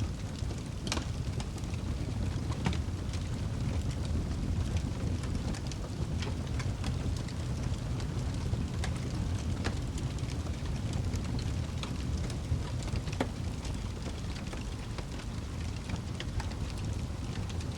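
Wood fire burning in a fireplace: a steady low rumble with irregular sharp crackles and pops, a few of them louder snaps.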